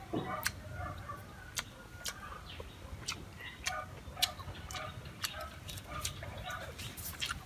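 A person chewing a mouthful of crunchy stir-fried corn kernels close to the microphone, with irregular sharp clicks and smacks. Chickens clucking with short calls in the background.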